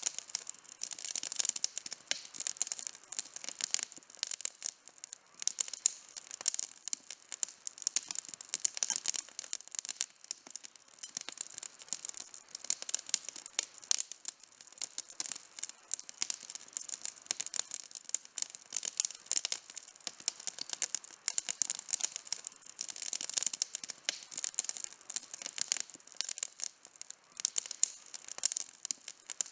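Campfire burning with dense, irregular crackling and sharp pops from the burning wood, continuing without a break.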